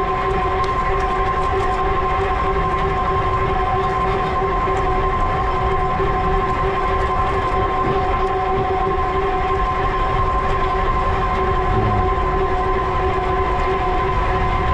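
E-bike in motion: a steady whine of several unchanging tones over a constant low rumble of wind and rolling noise.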